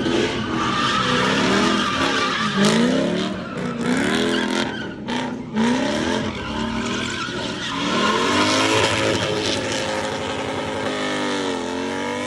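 A car's engine revving up and down repeatedly while its rear tires spin and squeal through a burnout or donuts, the engine pitch rising and falling about every second or so over a continuous tire hiss.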